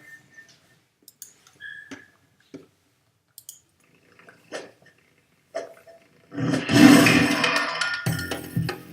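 A few faint scattered clicks and knocks, then about six seconds in an animal's loud, rough call that carries on to the end.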